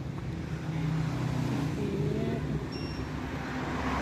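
Steady low motor hum, with faint voices over it.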